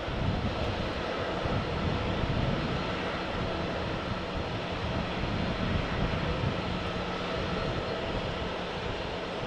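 Airliner engines running with a steady rushing noise and a low hum underneath, swelling slightly a couple of times.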